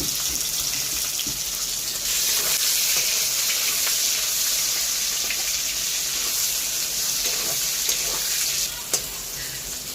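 Onions sizzling in hot oil in a pan as they are stirred, a steady hiss that grows louder about two seconds in, with a sharp knock at the start and another near the end.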